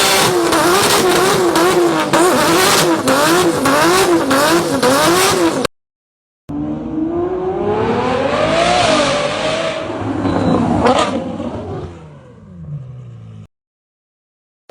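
Engine exhaust sound effects: first an engine revved in quick rises and falls with sharp crackling pops for about six seconds. After a short gap, an engine note climbs in pitch, peaks and falls away, fading out.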